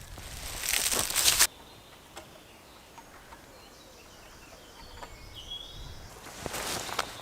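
Crunching and rustling in dry forest-floor leaf litter that stops abruptly about a second and a half in. Quiet woodland with faint bird chirps follows, and the rustling starts again near the end.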